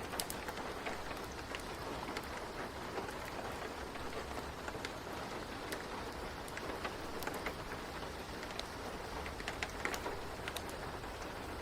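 Steady rain ambience, an even hiss with scattered sharp ticks and pops throughout.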